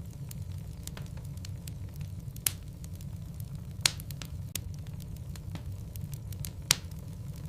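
Wood logs burning in a fireplace: a steady low rumble of flames with scattered crackles and three sharp pops, about two and a half, four and nearly seven seconds in.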